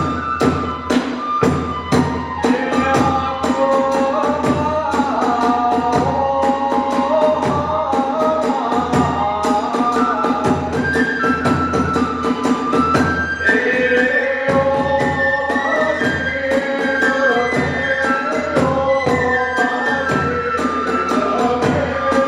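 Hiroshima kagura hayashi music: a bamboo flute melody over fast, steady drum beats and clashing hand cymbals, accompanying the dance.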